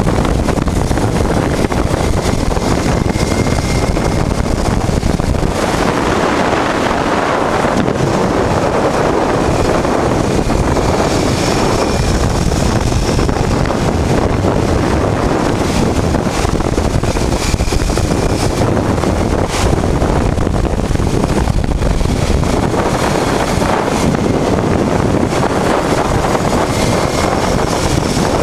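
Wind rushing over the microphone of a moving motorcycle, steady throughout, with the 1988 Honda Transalp's V-twin engine running underneath.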